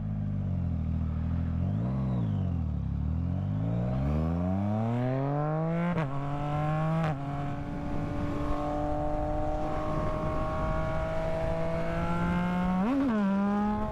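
A Yamaha MT-09's three-cylinder engine under way, with wind noise. A short blip of revs comes about two seconds in. The engine then accelerates in a rising pitch through two quick upshifts around six and seven seconds in, then cruises with a steady note. Near the end there is another brief blip of revs.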